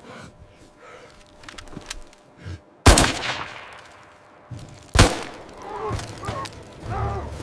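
Two rifle shots about two seconds apart, the first with a long echoing tail.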